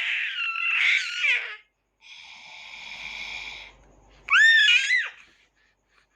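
A baby squealing in high-pitched shrieks, twice, with a steady hissing sound for about a second and a half between the squeals.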